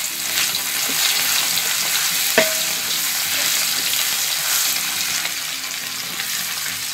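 Ground shallot, garlic and candlenut paste sizzling in hot oil in a wok as it is stirred with a metal spatula. One sharp clink of the spatula against the wok comes about two and a half seconds in.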